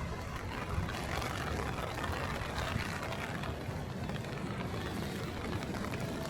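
Steady noise of heavy rain and traffic on wet city streets, with a low rumble underneath.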